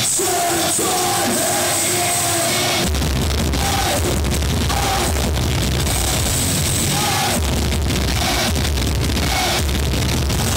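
Heavy metal band playing live, loud and distorted as picked up by an audience recording; about three seconds in, the bass and drums come in heavily under the guitars.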